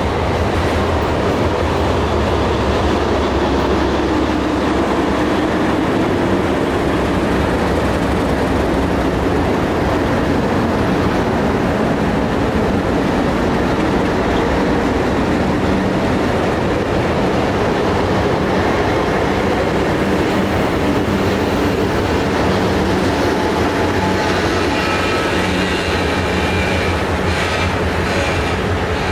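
Freight train of covered hopper cars rolling past with wheels clicking over the rail joints, then Delaware Lackawanna Alco diesel locomotives running past close by, their engines adding a steady low drone. A high whine joins in near the end.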